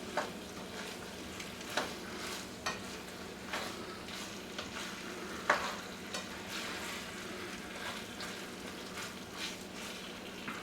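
Chicken stir-fry sizzling steadily in a hot pan, with a utensil scraping and tapping the pan a few times as it is stirred. A low steady hum runs underneath.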